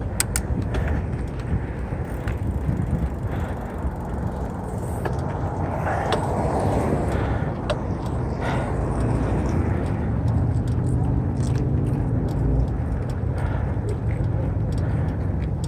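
Steady wind and tyre rumble from a mountain bike on the move, with scattered clicks and rattles from the bike.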